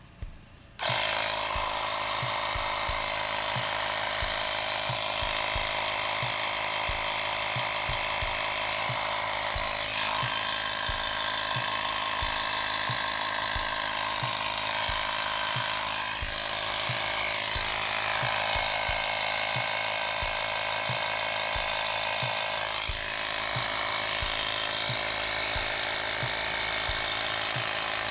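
AUTO-VOX 12V portable tire compressor running steadily under load as it pumps up a car tire near 32 psi. The motor and piston make a constant buzzing rattle that starts abruptly about a second in. Its pitch shifts slightly a few times.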